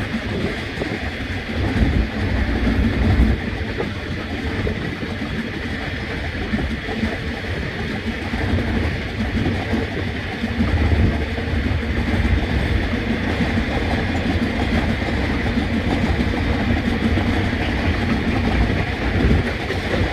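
Freight train's container wagons rolling past, a steady rumble of steel wheels on the rails with clickety-clack.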